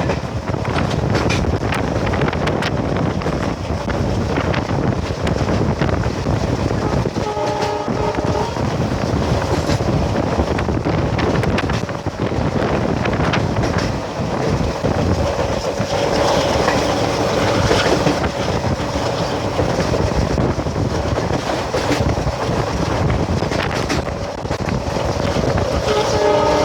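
ALCO WDM-3A diesel locomotive's V16 ALCO 251 engine running at full throttle (top notch), with wheels clattering over rail joints. The horn sounds briefly about seven seconds in, again for a couple of seconds near the middle, and once more at the very end.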